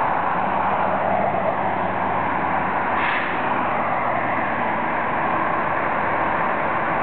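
Ferrara fire pumper on a Spartan Gladiator chassis, its diesel engine running steadily as it pulls out of the station, with a short burst of noise about three seconds in.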